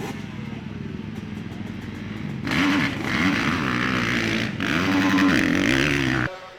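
Motorcycle engine running at a steady note, then about two and a half seconds in it revs hard, its pitch rising and falling several times, before cutting off suddenly near the end.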